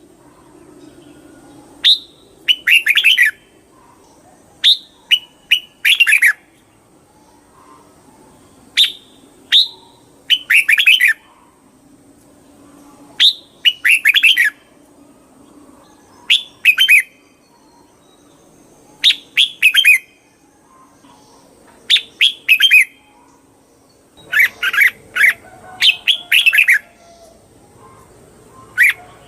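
Red-whiskered bulbul singing: short phrases of quick, chirpy notes, repeated every two to three seconds.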